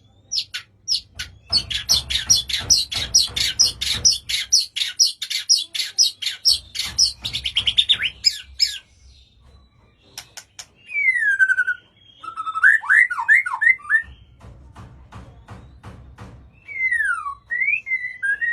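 White-rumped shama (murai batu) singing: a long run of rapid, sharp repeated notes for about eight seconds, then after a short pause, clear whistled phrases that glide down and up.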